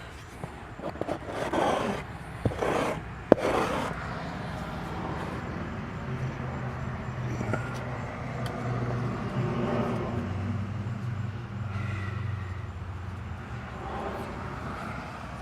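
An applicator scraping and spreading J-B Weld epoxy over a crack in a steel garage door panel, with a few sharp clicks. Then a steady low vehicle engine hum runs for several seconds.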